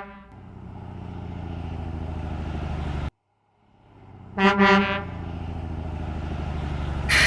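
Truck sound effect: a steady low engine rumble that cuts off abruptly about three seconds in. It builds back up, and a short double horn honk sounds about four and a half seconds in. The engine then runs on until a loud burst of hiss at the very end.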